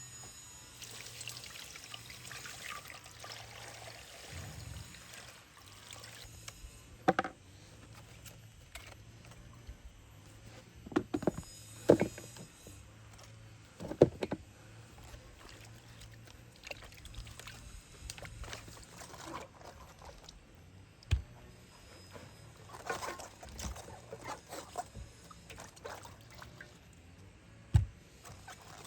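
Liquid trickling and pouring, with a handful of sharp knocks and clatters scattered through it.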